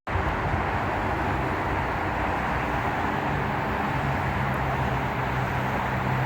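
Train running by: a steady rumble with a low, even hum that grows stronger about halfway through.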